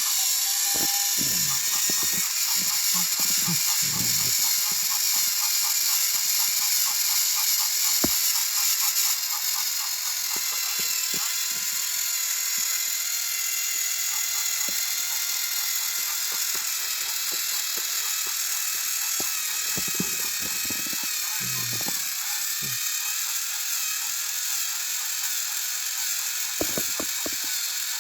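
Battery-powered toy train engines running, their small motors and plastic gears whirring steadily in a high buzz, with a few light clicks; the level drops slightly about ten seconds in.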